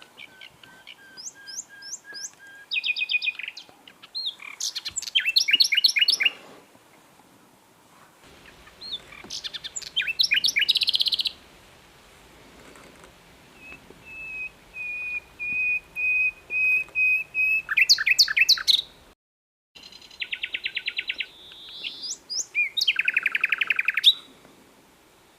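Common nightingale singing: separate phrases of fast repeated notes and trills with short pauses between them, including a run of clear whistles on one pitch that swell in loudness. About three-quarters of the way through, the sound cuts out completely for about half a second.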